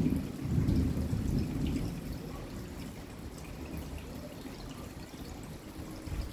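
Rain falling, with water pouring and dripping close by. A low, uneven rumble is strongest in the first couple of seconds, then eases off.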